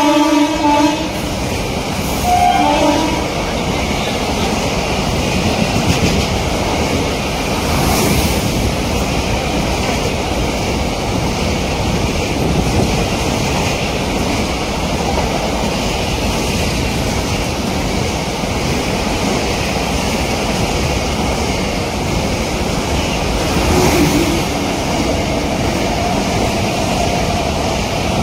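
Container freight train running through a station at speed: a continuous loud rumble and rattle of wagons passing close by on the rails. A train horn cuts off about a second in and sounds briefly again about two seconds later.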